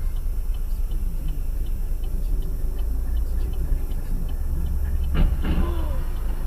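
Car dashcam audio from inside a moving car: steady low road and engine rumble, with a short knock about five seconds in.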